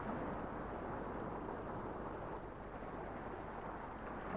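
Steady rushing underwater noise of water as penguins swim and glide.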